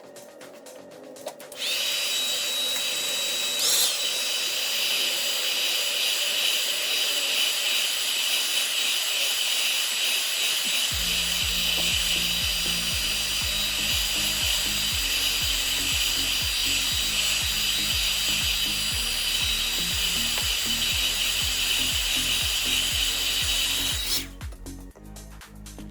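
A small handheld power tool's electric motor starts up with a rising whine, runs steadily with a high whine for about twenty seconds, and then stops sharply. Background music with a steady beat runs under it in the second half.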